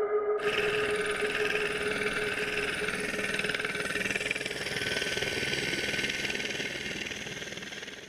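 Helicopter engine and rotor noise, a steady dense rush that cuts in about half a second in and fades away at the end.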